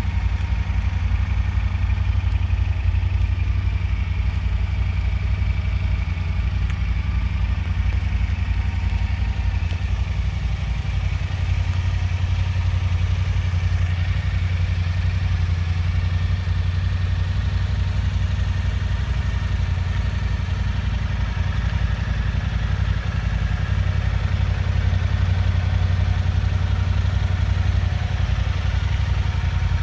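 Yamaha Ténéré 700's 689 cc parallel-twin engine idling steadily.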